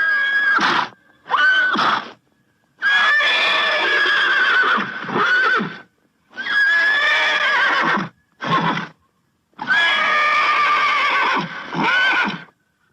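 Horse whinnying: a series of about seven neighs, some short and some drawn out for two or three seconds, each starting and stopping abruptly with silence between.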